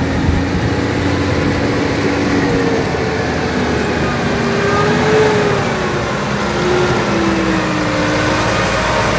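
Hino Victor 500 dump truck's diesel engine pulling a loaded sand trailer over rough ground, its engine note rising and falling as it works through.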